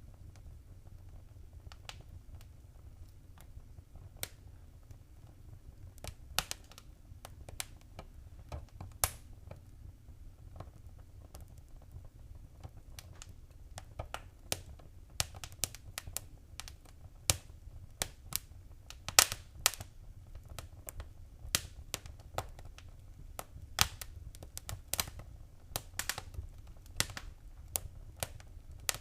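Wood fire crackling in a fireplace: irregular sharp pops and snaps over a low steady rumble. The pops are sparse at first and come more often from about halfway through.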